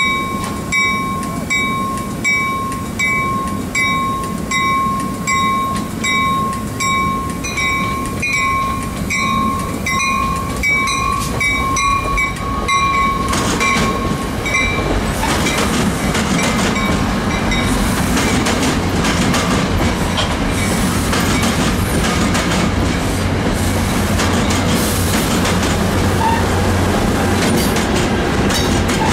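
Locomotive bell ringing about once a second as an NJ Transit commuter train pulls in. The bell stops about halfway, and the train rolls past with steady wheel and rail rumble, rattling cars and a low hum from the locomotive.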